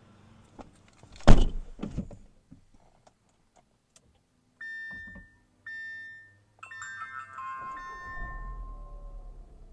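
A car door shuts with one heavy thunk, then two short electronic beeps sound a second apart. A cluster of electronic tones follows, and a low rumble comes in near the end.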